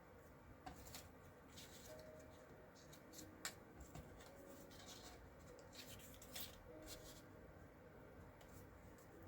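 Faint rustling of cardstock pieces being handled and laid down, with a few soft taps.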